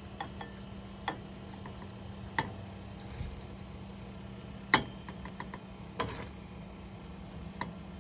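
A serving utensil clinking and tapping against a bowl as food is spooned over rice: about six separate sharp clinks, the loudest almost five seconds in, over a steady low hum.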